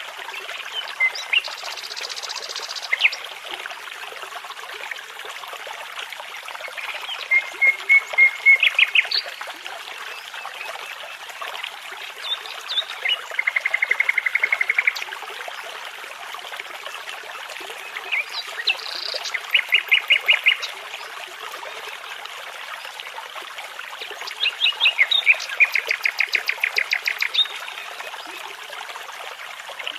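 A nightingale singing five separate phrases of rapid repeated notes and trills, a few seconds apart, over the steady rush of a babbling brook.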